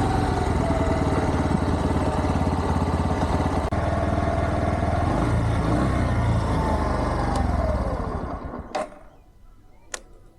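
Bajaj Platina 100 motorcycle's single-cylinder engine idling steadily, then switched off about eight seconds in and running down to a stop. Two sharp clicks follow.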